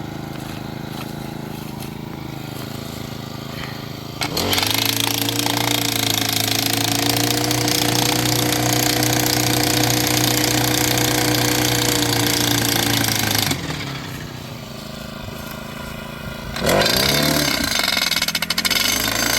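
Petrol-powered post driver hammering a fence post into the ground. Its engine runs loud for about nine seconds over a steady idling engine, drops off, then starts hammering again a few seconds before the end.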